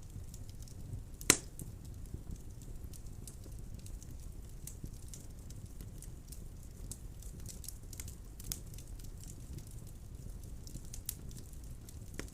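Burning wood in a fireplace crackling, with a steady low rumble of flames and scattered small crackles. There is one loud pop about a second in and a couple of smaller pops later on.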